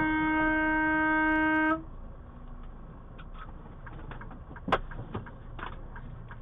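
A vehicle horn held in one long steady blast that cuts off abruptly a little under two seconds in. Quieter road noise follows, with a few small knocks and one sharp click.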